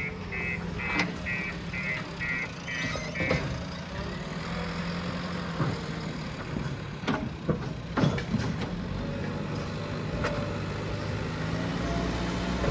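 JCB 3DX backhoe loader's diesel engine running steadily, its reversing alarm beeping about twice a second for the first three seconds and then stopping. Several sharp clanks from the machine's working gear come in the middle.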